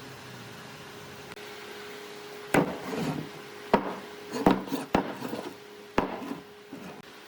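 Wood being knocked or struck: five sharp hard hits with clattering between them, starting about two and a half seconds in, over a faint steady hum.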